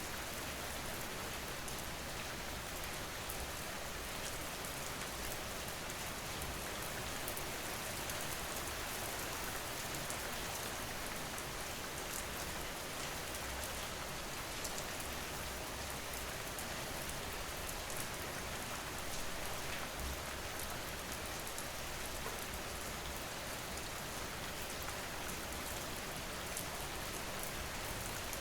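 Steady rain falling, a continuous even hiss with fine pattering of drops.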